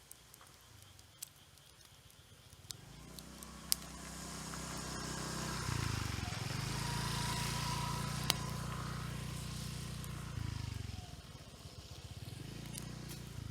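A motor vehicle's engine passing: it grows louder, is loudest for several seconds from about six seconds in, then fades, and a second, quieter pass swells near the end. Sharp single pops of burning firewood crackle now and then through it.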